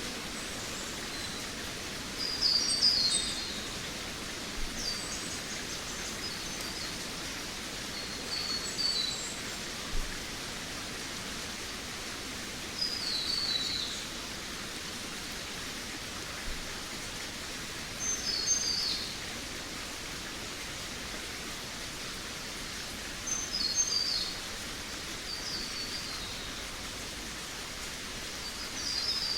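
Forest birds singing: short, high chirping phrases every few seconds, separated by gaps, over a steady background hiss.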